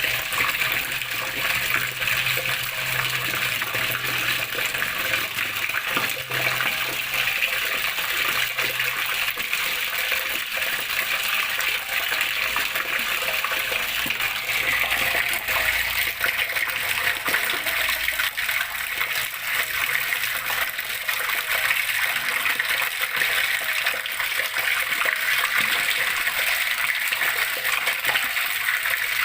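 Water flowing and splashing steadily, a constant rushing and gurgling with no pauses.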